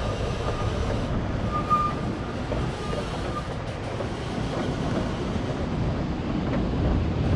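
Rumbling run of a Kurobe Gorge Railway narrow-gauge passenger carriage heard from inside, steady wheel and car-body noise, with a brief thin squeal about a second and a half in.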